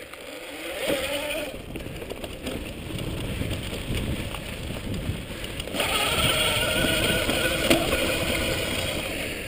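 Electric mountain bike under way: its motor whines and rises in pitch as it pulls off. The riding noise grows louder and rougher about six seconds in.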